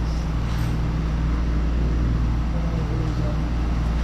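Steady low machine hum, with a faint light tap about half a second in.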